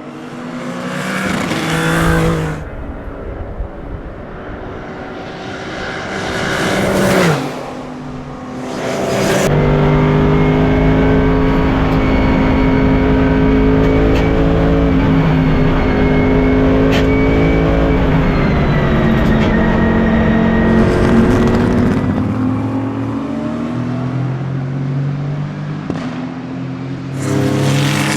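Race car engines. Cars pass at speed three times in the first ten seconds, then an engine runs at a steady pitch for about twelve seconds, easing down slightly, and another car rushes past near the end.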